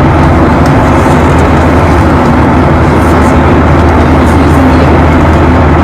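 Airliner cabin noise in flight: a loud, steady rush with a low drone underneath.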